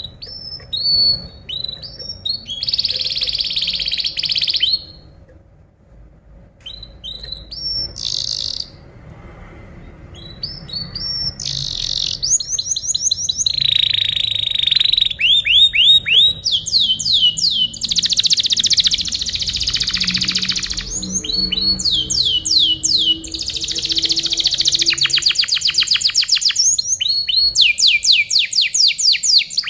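Domestic canary singing loudly in long tours of rapidly repeated notes: runs of quick falling whistles and dense, rolling trills. There is a short lull about five seconds in, then the song runs almost without a break through the second half.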